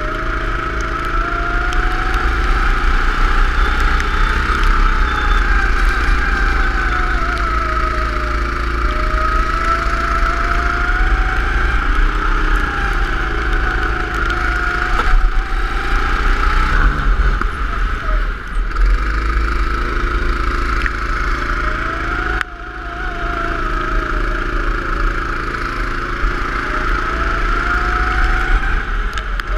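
Go-kart engine running at speed, its pitch rising and falling every few seconds as it revs up on the straights and eases off into corners, over a heavy low rumble.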